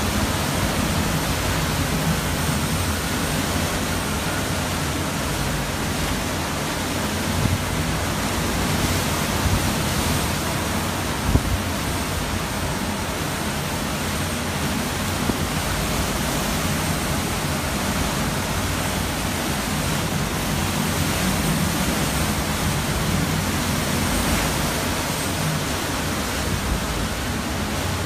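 Hurricane-force wind, about 160 to 170 miles an hour, making a loud, steady rushing noise. A brief knock about eleven seconds in.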